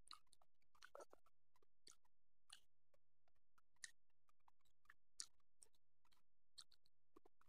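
Faint, irregular wet clicks and smacks of a person chewing a mouthful of rice and curry eaten by hand.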